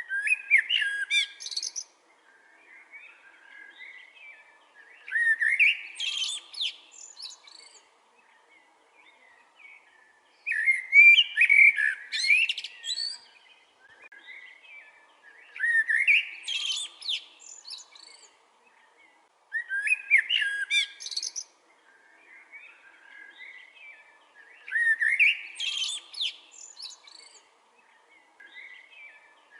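Blackbird singing: loud phrases of about two seconds repeated every four to five seconds, each running up into high squeaky notes, with softer twittering in the gaps between phrases.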